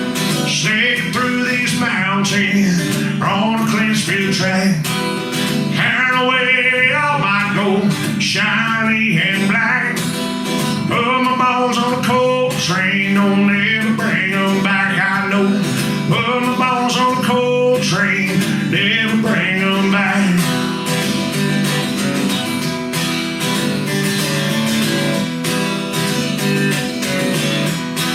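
Live acoustic country music: strummed acoustic guitar with a wavering melody line over it for about the first twenty seconds, then the guitar carrying on alone.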